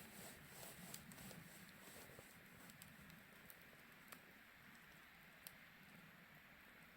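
Faint crackling of a wood fire in a fire pit: scattered small pops and ticks, about one a second, over a quiet hiss.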